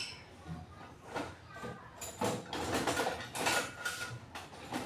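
Metal hand tools clinking and scraping as they are handled, with a few short metallic rings, busiest in the second half.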